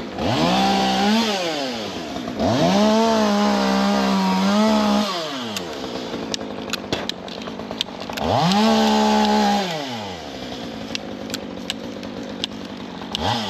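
Two-stroke chainsaw revved up to full throttle and let fall back to idle three times: a long rev from the start, a longer held one a couple of seconds in, and a third past the middle. Sharp clicks sound between the last two revs and again near the end.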